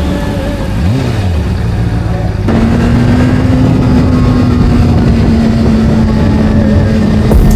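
Video-game sport motorcycle engine: a quick rise and fall in pitch about a second in, then louder from about two and a half seconds in, holding one steady pitch as the bike runs at speed.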